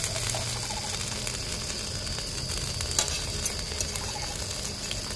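Potato tikkis (aloo tikki) sizzling steadily as they shallow-fry in oil on a large flat iron griddle (tawa), with a sharp click of the steel tongs about three seconds in.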